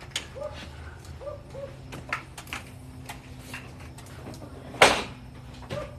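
Scattered knocks and clicks of lengths of metal E-track rail being handled, with one loud sharp knock a little before the five-second mark.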